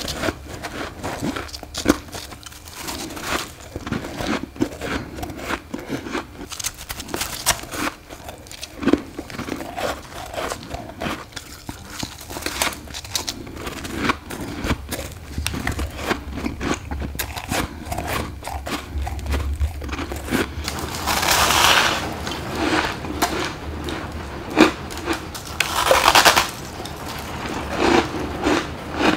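Close-up biting and chewing of freezer frost ice: a continuous run of crisp crunches and crackles, with two longer, louder crunching bites about three quarters of the way through.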